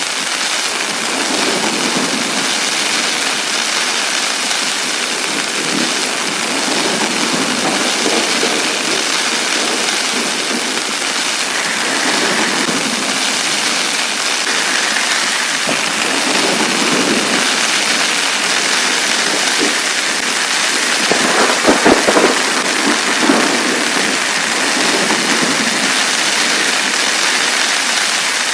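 Heavy rain falling steadily on a tent, with a short cluster of louder knocks about three-quarters of the way through.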